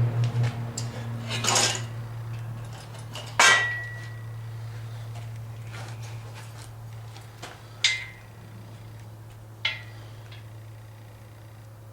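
Metal parts and tools knocking and clinking as an engine stand is fitted, with a handful of separate clanks. The loudest, a sharp ringing clank, comes about three and a half seconds in. A steady low hum runs underneath.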